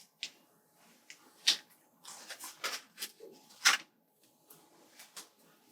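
Scattered light taps and soft rustling of paper sticker sheets being handled and stickers pressed down, with a sharper tap about a second and a half in and another near four seconds.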